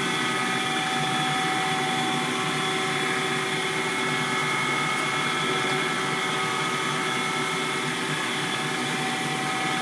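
Schaudt cylindrical grinder running steadily under power, its grinding wheel spinning with the hydraulic table and coolant pump going, on a fine automatic in-feed. A steady whine of several held tones over a hum and hiss.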